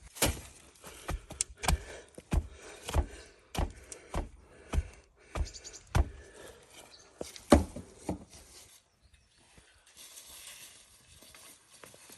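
A steady run of sharp knocks, about one and a half a second, stopping about eight seconds in.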